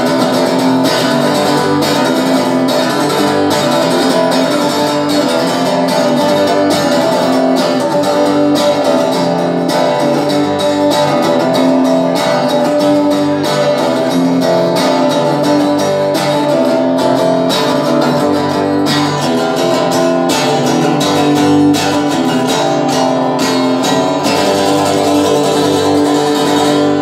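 Live music led by strummed guitar, playing steadily with a quick, even strumming rhythm and no singing.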